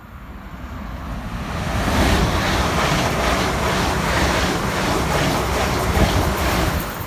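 Train passing close by at speed: a rushing noise of wheels and air that builds over about two seconds, holds loud with a faint rapid rhythmic pulsing, and eases near the end.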